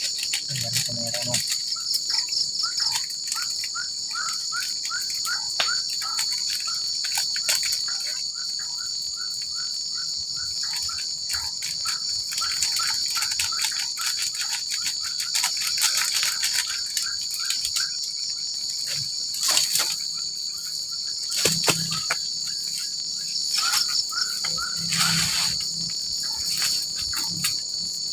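Forest insect chorus: crickets trilling steadily and high-pitched. A lower short chirp from another animal repeats about three times a second for long stretches, with scattered clicks and knocks.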